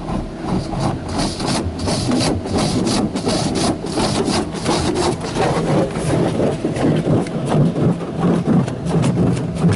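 High-pressure rinse jets of a PDQ ProTouch Tandem car wash spraying a car to rinse off the foam, heard from inside the car. The water makes a dense, uneven rushing hiss on the body that keeps rising and falling, over a low steady hum.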